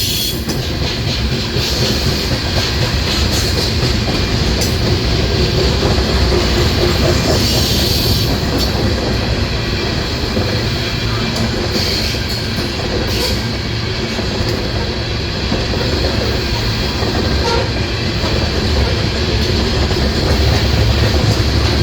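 Loaded coal train rolling past: steel wheels rumbling steadily on the rails, with clickety-clack and a few sharp clicks as the gondolas' wheels cross rail joints.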